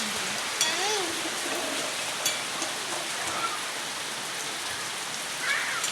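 Steady rain falling on surfaces, with a few faint short voice calls over it.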